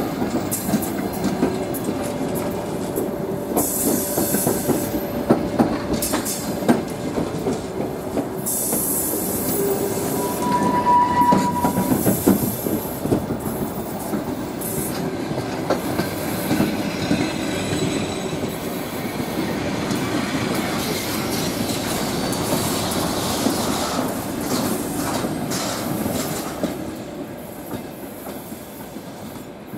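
Passenger coaches of a departing train rolling past at close range. There is a brief high squeal about ten seconds in, and the sound fades near the end as the last coach moves away.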